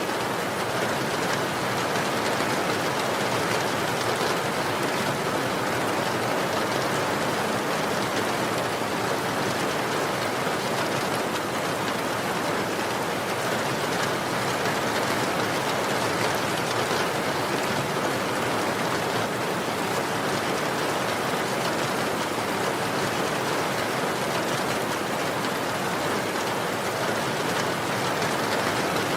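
Steady, even rain falling on a surface, a dense constant patter with no distinct drops standing out.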